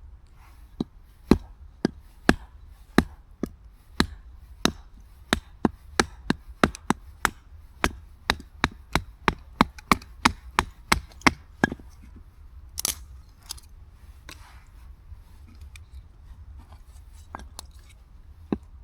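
Steady chopping on a wooden surface, about two sharp strokes a second, stopping about twelve seconds in. A brief louder scrape follows, then a few lighter knocks.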